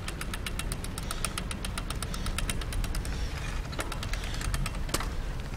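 Bicycle freewheel ratchet ticking rapidly as the bike coasts, the ticks thinning out after about three seconds, over a low rumble of wheels and wind.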